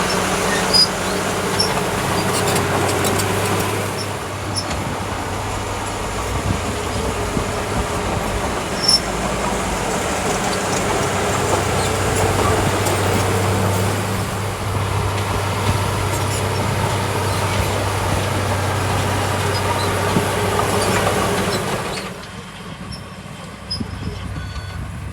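Small crawler bulldozer (Komatsu D31P) working: its diesel engine runs with a steady low hum under the clatter and scattered metallic squeals of its steel tracks. Near the end the sound drops noticeably quieter.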